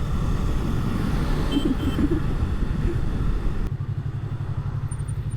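Yamaha MT-03 parallel-twin motorcycle engine running, heard from the bike with wind rushing past. About two thirds of the way in the wind noise drops away and the engine's low, even pulsing carries on alone.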